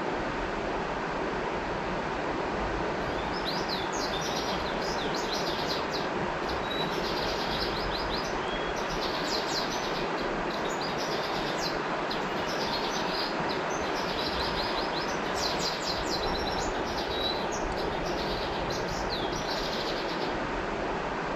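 Steady rush of flowing river water, with small birds chirping in quick repeated runs of high notes from about three seconds in until near the end.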